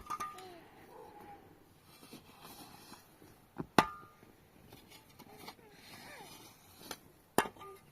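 Two sharp knocks about three and a half seconds apart, each with a brief ringing after it; a lighter tap comes just before the first.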